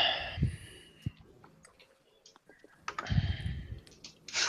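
Scattered clicks and two short scratchy rustles from markers and paper being handled while answers are written.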